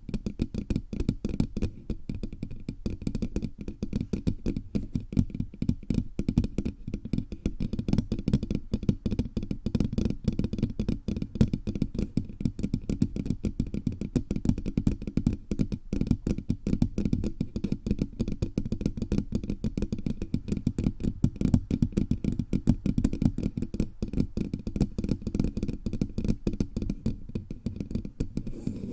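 Fingertips tapping rapidly and continuously all over a bare microphone, including its body. The taps come many to the second and sound deep and muffled.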